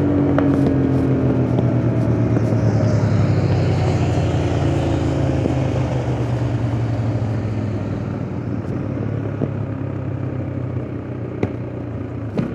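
KTM RC 390's single-cylinder engine running under way, its pitch dropping in the first second and then holding steady as it gradually gets quieter, the bike easing off. A couple of faint clicks near the end.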